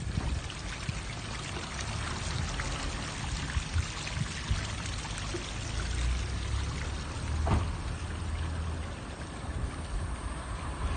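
Water pouring down a built garden waterfall, a steady splashing rush, with a low uneven rumble underneath.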